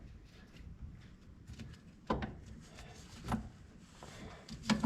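Three separate knocks and clunks, about a second apart near the middle and end, from parts being handled during repair work on the planter's wheel.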